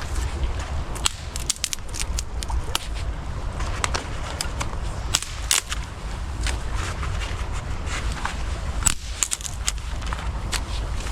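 Dry twigs and sticks snapping in quick, irregular cracks, several in clusters, over a steady low rumble.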